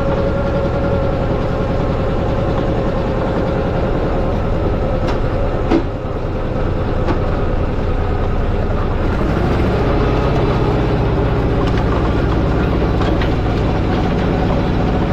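Allis-Chalmers tractor engine running steadily, with a whine sliding down in pitch at the start and one sharp knock just before six seconds in.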